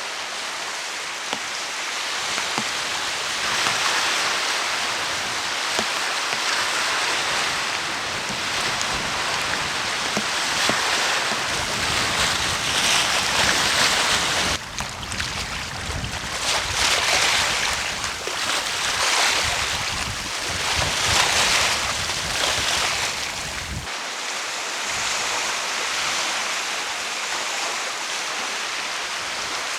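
Stormy seashore: waves breaking on the shore with wind and heavy rain, a loud steady rush that swells and eases in surges. The sound changes abruptly twice, about halfway through and again near the end.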